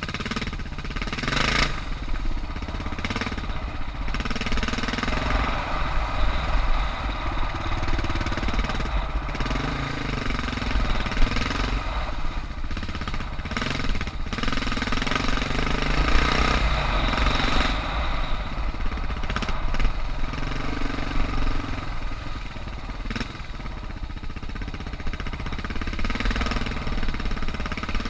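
Suzuki DR650's single-cylinder engine running as the bike rides a trail, its note swelling and easing every few seconds as the throttle opens and closes, over steady wind and tyre noise.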